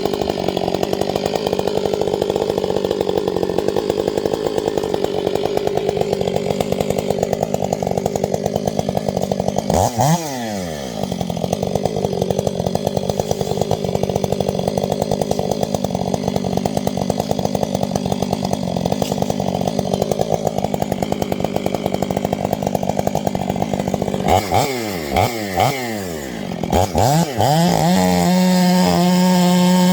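Two-stroke chainsaw cutting through wood under load. The engine speed drops and picks back up about a third of the way in. Near the end it is revved several times, then held at high revs without cutting.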